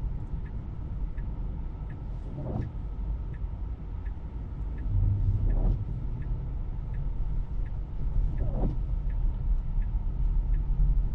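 Tesla cabin road and tyre noise from driving on snow, a steady low rumble, with the turn signal ticking about once and a half a second. A soft swish recurs about every three seconds.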